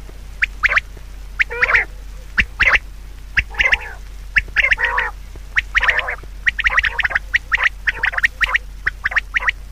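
A rapid series of short, harsh animal calls, likely a bird, coming closer together in the second half.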